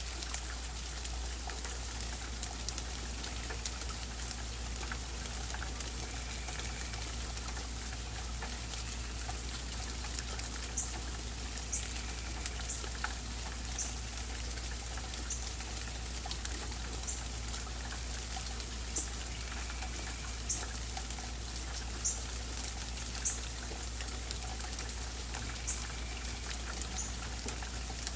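Steady rain falling, with many single drops ticking close by. A few short, high bird notes come through faintly over it.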